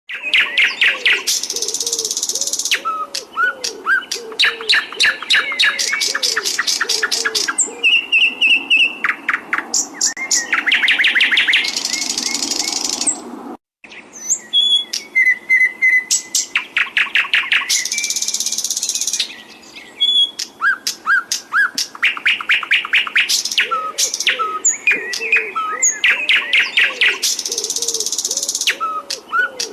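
Songbirds singing a continuous masteran training song: rapid trills and long rolls mixed with whistled, gliding notes, broken by a brief gap about halfway through. A low, repeated warbling call runs underneath at the start and again near the end.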